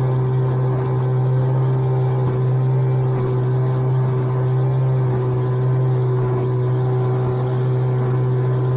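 Outboard motor running at a steady, unchanging speed, driving a small inflatable boat across choppy water.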